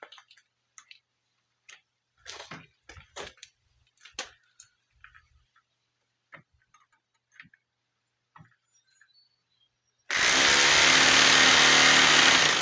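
A few light clicks and rattles of handling. Then, about ten seconds in, a Bosch SDS-plus hammer drill starts suddenly and runs loud and steady at full speed.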